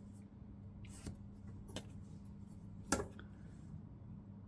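A few light clicks and taps of small styrene model parts being handled, three in all, the loudest near three seconds in, over a steady low electrical hum.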